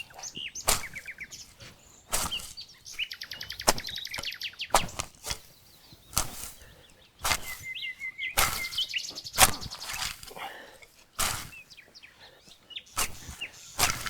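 Small birds chirping and singing quick trills, with irregular sharp knocks about once a second that are louder than the birds.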